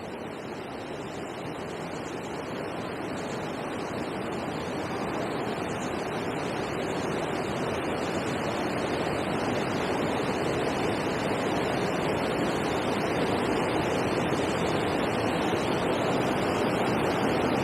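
Steady rush of water tumbling over a river weir, growing gradually louder.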